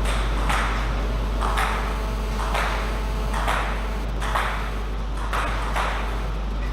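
Table tennis ball being hit back and forth in a rally, crisp knocks about one a second, over a steady low hum.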